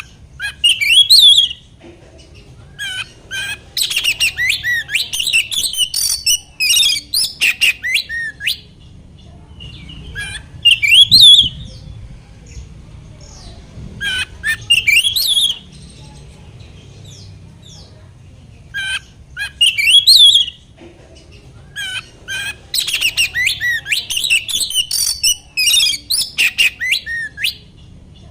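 Oriental magpie-robin (kacer) singing loud bouts of rapid, varied whistles and rough chattering notes, broken by short pauses.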